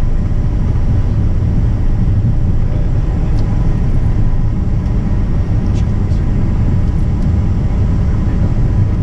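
Gulfstream G550 business jet taking off: a loud, steady low rumble with a faint constant tone above it.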